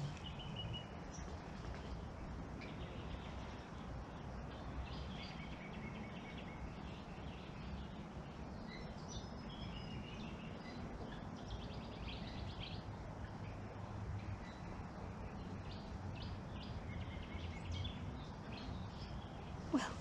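Scattered faint bird chirps and short calls over a steady low background noise.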